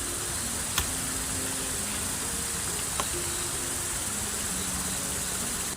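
Steady high-pitched hiss with faint background music notes under it and two small clicks; it cuts off suddenly near the end.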